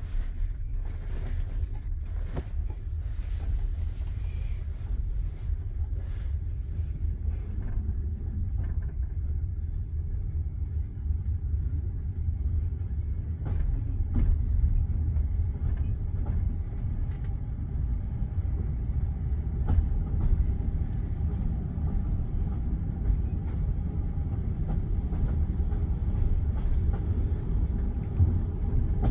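Passenger railway carriage rumbling along the rails, heard from on board: a steady low rumble with scattered clicks and knocks from the wheels and car body, growing slightly louder toward the end.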